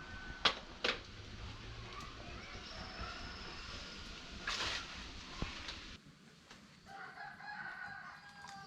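A few sharp knocks in the first half, the loudest about half a second in, then a rooster crowing from about seven seconds in, one long call that falls in pitch at the end.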